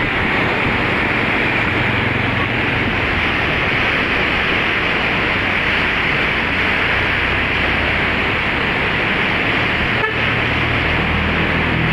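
A river in flood, its swollen current rushing in a loud, steady wash of water noise, with a low hum underneath at times.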